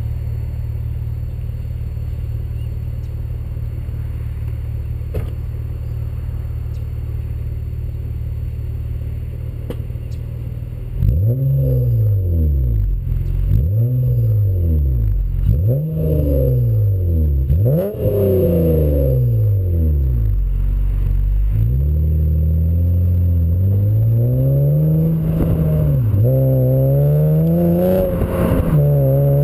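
Car engine breathing through an aftermarket RV6 high-flow precat, J-pipe and TD catback exhaust, idling steadily for about ten seconds. It is then blipped four times in quick succession, each rev rising and falling, settles back to idle, and is revved up twice more in slower, longer pulls.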